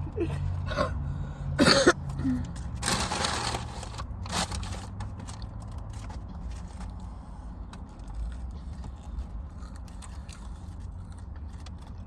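A boy coughing and sputtering after gulping fizzy soda, with several harsh coughs in the first few seconds before it settles into quieter throat noises.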